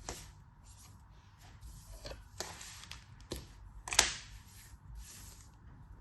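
A knife cutting, in a string of short, crisp, crunchy strokes with a few sharp clicks, the loudest about four seconds in.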